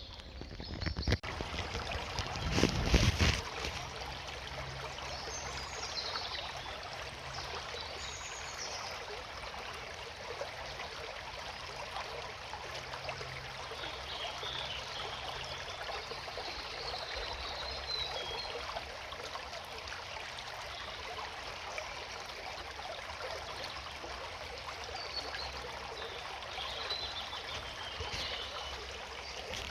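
Small woodland stream running and trickling steadily, with birds chirping faintly now and then and a faint low hum. A brief loud noise about two to three seconds in.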